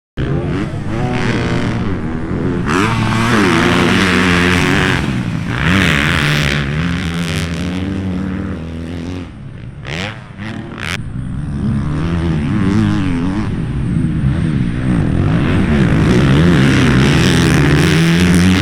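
Dirt bike engines revving up and down as they ride on a motocross track, the pitch rising and falling with the throttle and dipping briefly about halfway.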